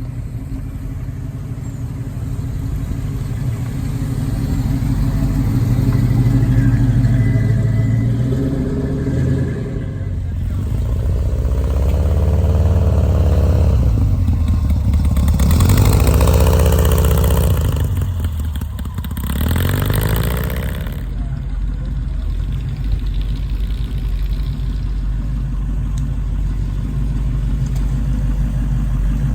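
A motor vehicle's engine running, revved up and eased off several times in the middle, rising and falling in pitch, then settling back to a steady rumble.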